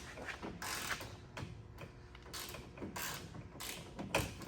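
Ratchet wrench worked back and forth on a bolt: a run of short clicking, creaky strokes, about one every two-thirds of a second.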